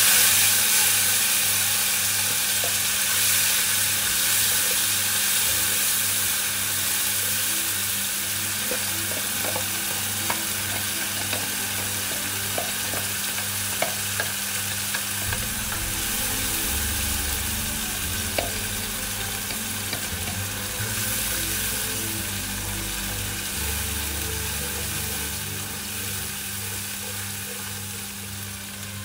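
Blended chili paste sizzling and frying in hot oil in a wok as it is poured in and stirred with a spatula, with a few light spatula ticks against the pan. The sizzle fades gradually as the paste cools the oil.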